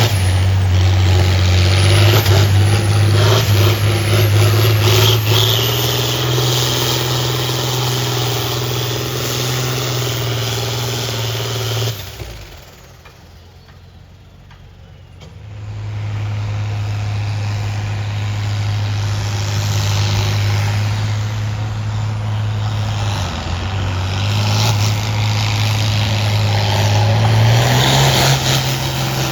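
Farm tractor engine running hard under load while pulling a sled, a steady deep note that steps up in pitch a few seconds in and again near the end. The engine sound drops out for about three seconds midway, then comes back.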